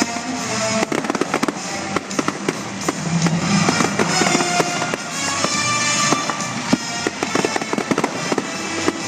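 Fireworks crackling and popping in rapid, dense volleys, with music playing alongside.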